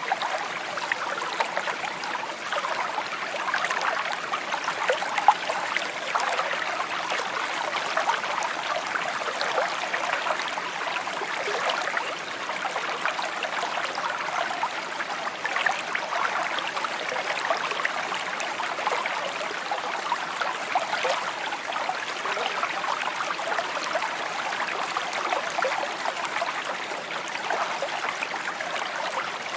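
Shallow brook babbling and trickling over stones, a steady splashy burble.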